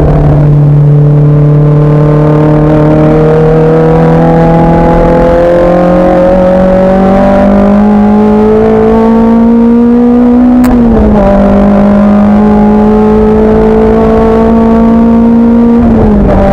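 Race car engine pulling hard under load, its pitch climbing slowly, then dropping sharply at an upshift about ten and a half seconds in. It pulls again at a steady pitch until a second drop near the end.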